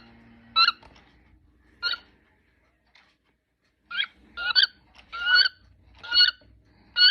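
Recorded wood duck calls played through a bird clock's small speaker. About nine short calls, some rising in pitch: a few scattered ones at first, then a quicker run of about one every half second in the second half.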